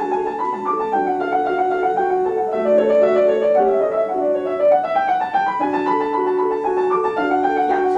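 Solo piano playing classical music: a melody line over a running figure of short repeated notes beneath it.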